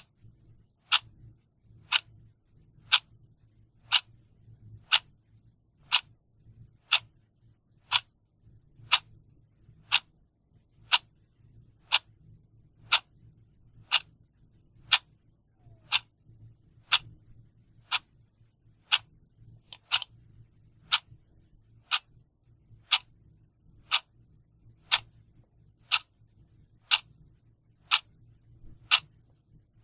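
Mechanical clock ticking steadily, one sharp tick about every second, over a faint low hum.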